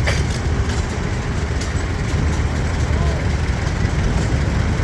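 Antique tractor engine running at low speed, a steady low rumble, with background voices.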